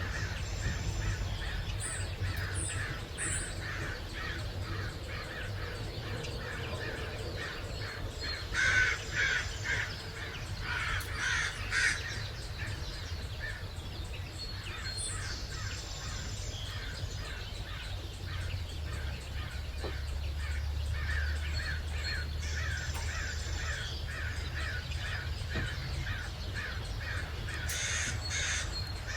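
A chorus of birds calling, with short calls repeated in a steady train and a few high chirps. Two clusters of loud, harsh calls stand out about a third of the way in, and another comes near the end.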